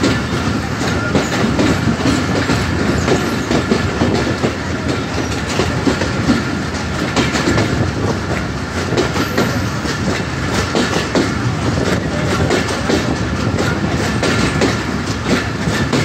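A train running along the track, heard from on board: a steady rumble of wheels on rails with constant rattling and clicking.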